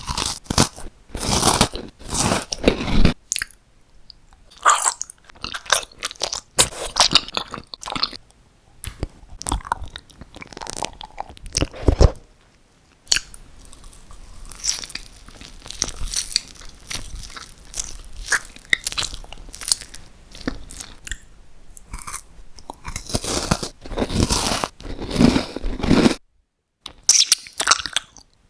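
Close-miked eating: crunchy bites and chewing in a run of short bursts separated by brief pauses, with a sharp cut to near silence for about a second near the end.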